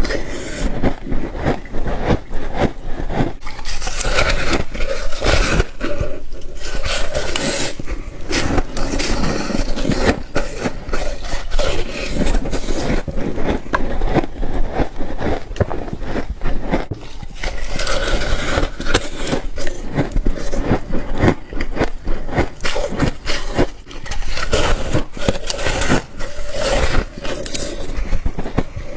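Rapid, close-up crunching of frost ice being bitten and chewed, a dense run of crackling crunches one after another.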